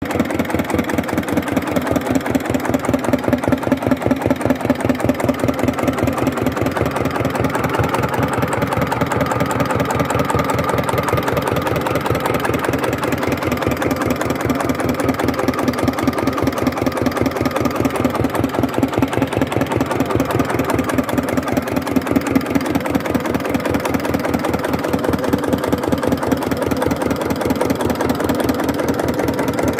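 Hatz diesel engine running steadily at low speed, a fast even beat of firing pulses.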